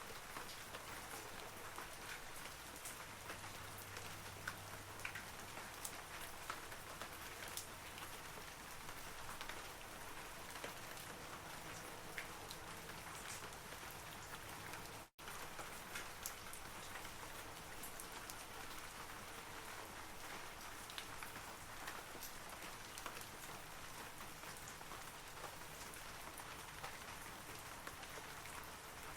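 Steady rain falling on forest trees, with many individual drops ticking through the hiss. The sound cuts out completely for a split second about halfway through.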